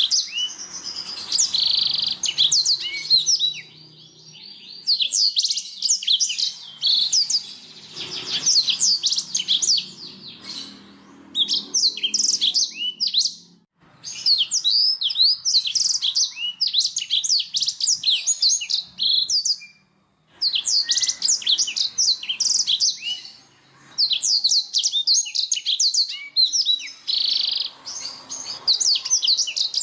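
Domestic canary singing: fast rolling trills of repeated high chirps, in phrases of a few seconds separated by short pauses.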